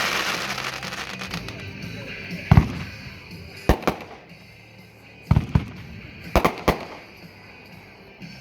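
Consumer fireworks cake firing: a dense crackling hiss of glitter effects fading away over the first couple of seconds, then sharp aerial reports, one single bang followed by three quick pairs of bangs.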